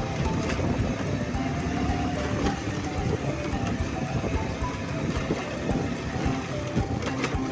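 Motorcycle riding along, its engine and road noise steady, with background music playing over it.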